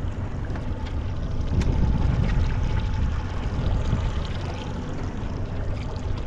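Boat on the water: a steady low rumble from its motor and the wind, with water sloshing against the hull.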